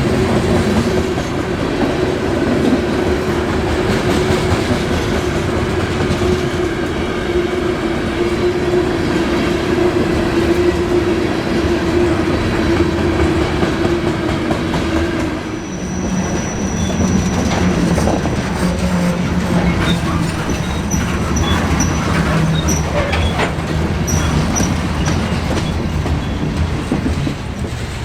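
CN manifest freight train rolling past, its cars clicking and clattering over the rail joints with a steady hum. About halfway through the sound changes suddenly, and the second half carries a lower hum with short, high wheel squeals.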